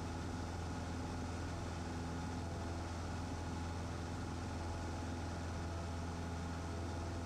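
Cessna 150's four-cylinder Continental O-200 engine and propeller running steadily in the climb, heard as an even drone from inside the cabin.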